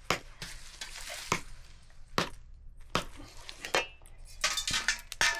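A knife chopping food on a board, sharp separate knocks coming irregularly about once a second.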